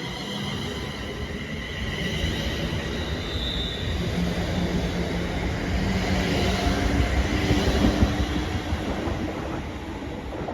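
ScotRail Class 380 electric multiple unit running through the platform, a continuous rumble of wheels on the rails with a faint steady whine over it, growing louder to a peak about eight seconds in and then easing off.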